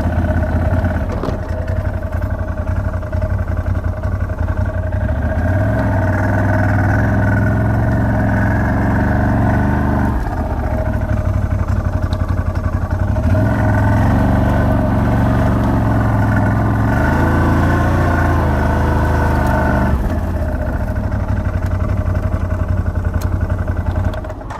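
A motor vehicle's engine running under way, its pitch and load shifting every few seconds as it drives. It cuts off right at the end.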